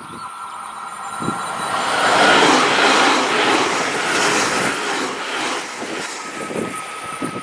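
JR Kyushu 885 series limited express electric train passing close by at speed: the rush of wheels and air builds to its loudest about two seconds in, then eases off slowly as the rear cars go by. The wheels knock a few times over rail joints.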